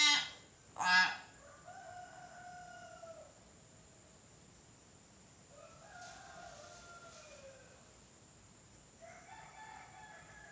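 Nias hill myna calling: two loud, sharp calls about a second apart. Three longer, fainter, slowly falling crow-like calls follow.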